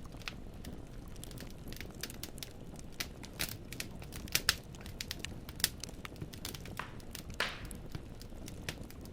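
Wood fire in a fireplace, logs crackling and popping in sharp, irregular snaps over a low steady rumble of flame. About seven and a half seconds in comes a longer hissing flare.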